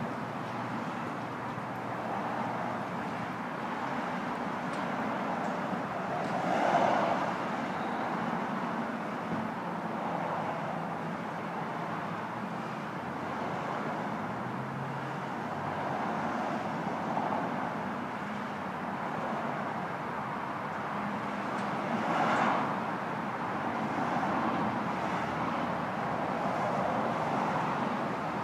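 Road traffic noise from a nearby road: a steady hum of passing traffic, with two vehicles going by louder, about seven seconds in and again about twenty-two seconds in.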